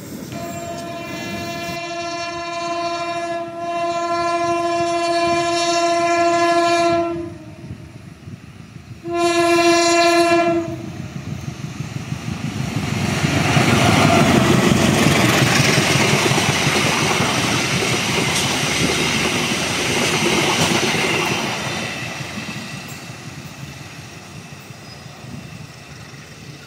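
A diesel locomotive's air horn sounds one long blast and then a short second one. The train then passes, its running noise and wheel clatter swelling and fading away.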